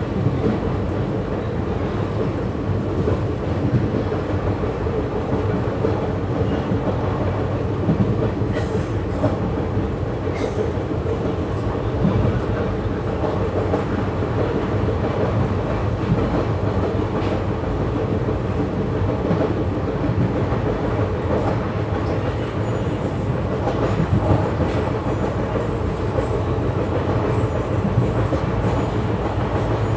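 Bikaner–Haridwar Express passenger train running along the track: a steady rumble of the coaches and wheels on the rails, with occasional faint clicks.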